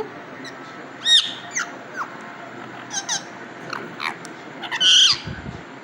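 Amazon parrot giving a string of short, high whistles and squeaky chirps spaced about half a second to a second apart, ending in a louder, harsher call near the end.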